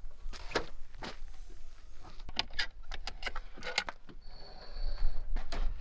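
Scattered clinks, knocks and rattles of gear being handled, with a short steady high tone about four seconds in.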